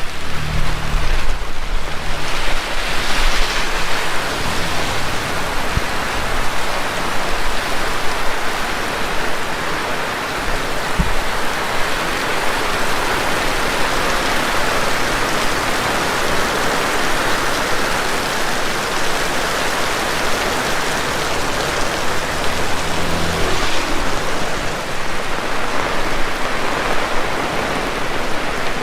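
Heavy rain pouring steadily as a dense, even hiss. Low rumbles come in near the start and again about three-quarters of the way through.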